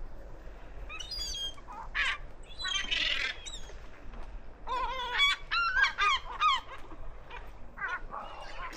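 Gulls calling in short bouts of harsh, falling cries: a few calls about a second in, around 2 and 3 seconds, and a busier run between about 5 and 6.5 seconds.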